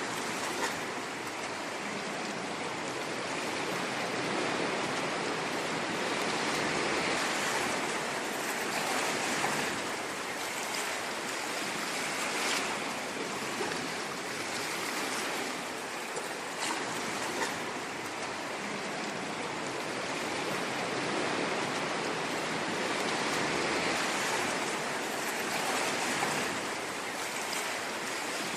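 Ocean waves breaking on a shore: a continuous rush of surf that swells and eases slowly every several seconds.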